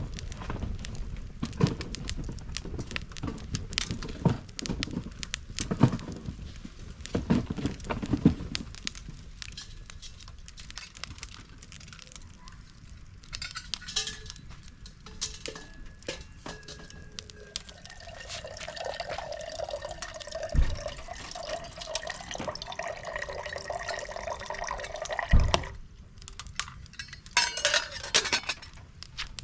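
Liquid poured into a vessel for several seconds, after a run of knocks and clinks from handling things.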